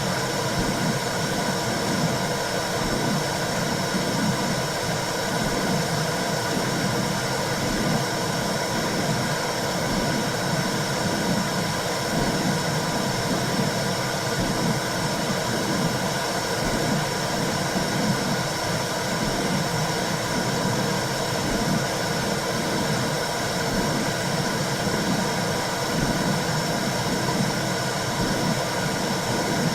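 Womb sound for soothing a baby: a steady whooshing noise with a rhythmic pulsing underneath.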